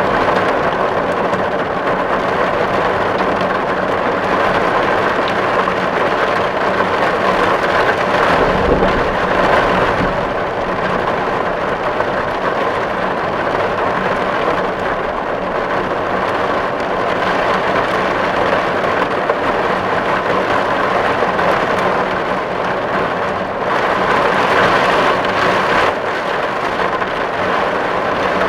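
Steady, heavy rain drumming on a metal tin roof, a dense even patter. A brief low rumble rises under it about nine seconds in.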